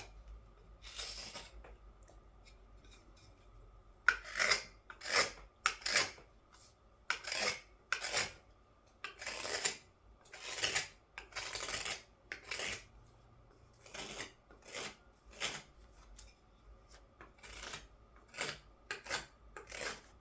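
Carving knife shaving green wood in a string of separate scraping strokes, irregularly spaced, with a quieter pause of about two seconds early on.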